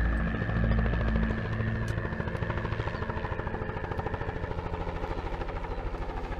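Helicopter rotor beating in a fast, even rhythm as the helicopter flies over the water. Background music fades out about a second and a half in, leaving the rotor.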